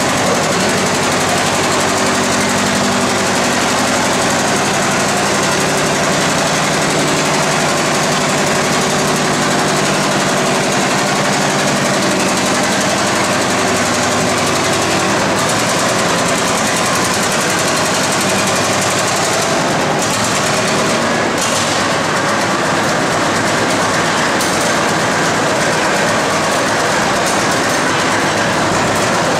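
Antique farm tractor's engine running hard under load, pulling the weight sled down the track.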